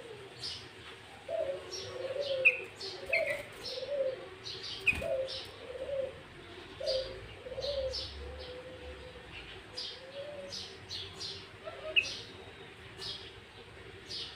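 Birdsong from a sooty-headed bulbul (kutilang) lure recording: quick high chirps throughout, with a row of low, evenly spaced notes, about one a second, that stops about ten seconds in.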